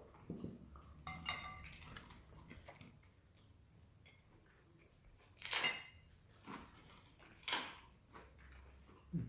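Cutlery and dishes clinking and scraping during a meal: a ringing clink about a second in, then two short, loud scrapes.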